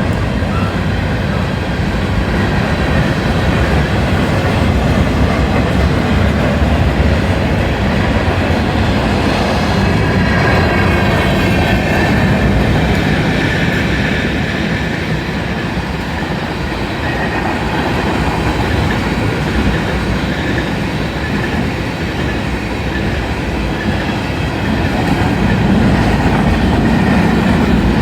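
Freight cars of a fast-moving Union Pacific manifest train rolling past close by. The wheels and rails make a steady, loud rumble with a clickety-clack over the rail joints.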